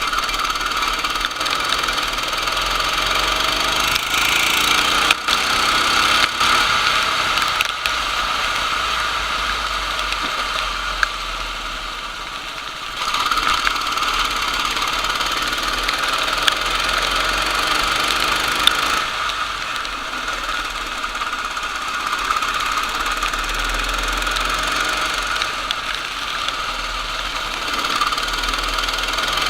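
Go-kart engine running at racing speed, its pitch rising and falling with the throttle, over a steady hiss. It gets suddenly louder about halfway through.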